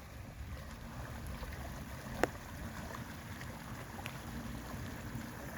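Rainwater runoff flowing steadily along a drain ditch, with one sharp click about two seconds in.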